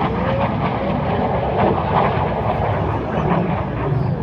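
Steady rumble of aircraft engine noise, even in level throughout.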